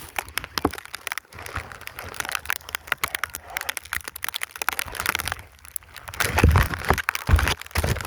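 Snow and leaf litter crunching and crackling as a buried hole is dug out, with two low thumps about six and seven seconds in.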